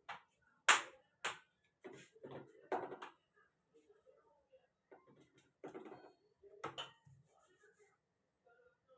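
Sharp knocks and clinks of kitchen utensils being handled, the loudest a clack about a second in, followed by several quicker knocks and two more near the end, with soft handling noise between.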